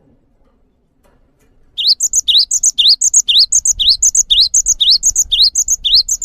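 A songbird repeating one short phrase about twice a second: a quick rising whistle followed by a pair of higher, sharper notes. It starts about two seconds in and stops abruptly.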